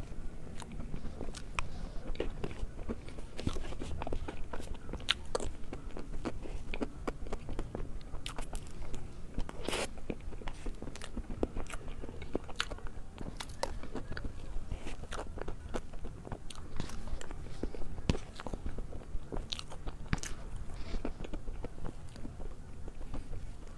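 Close-miked mukbang eating sounds: a person chewing cream-filled cake, with many irregular wet mouth clicks and smacks.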